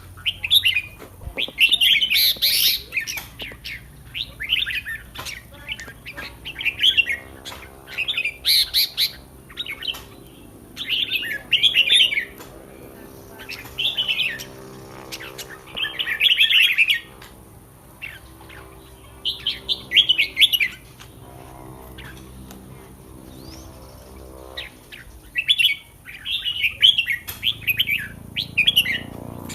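Red-whiskered bulbul singing short, bright warbled phrases, one every second or two, with a pause of about four seconds late on.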